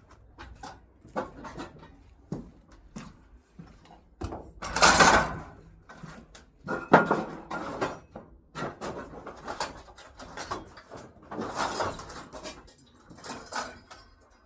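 Irregular knocks, clicks and clatter of objects being handled, with a louder scraping noise about five seconds in and a sharp knock about two seconds later.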